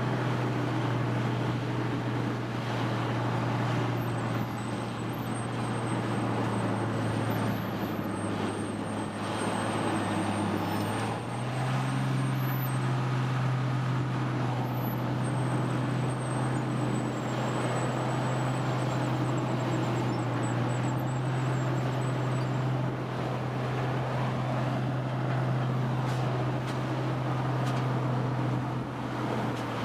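A heavy machine's engine running steadily with a strong low hum. Its pitch steps up about eleven seconds in and drops back near the end.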